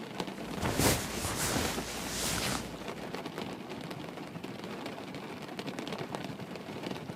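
Steady background rain ambience, with a brief louder noise lasting about two seconds, starting about half a second in.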